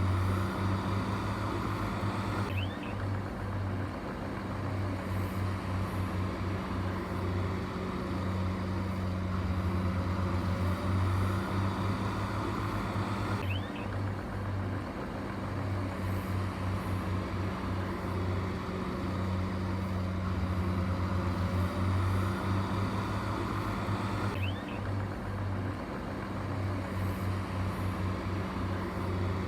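Heavy diesel engine of earthmoving equipment running steadily with a low drone. The same pattern of sound repeats about every eleven seconds.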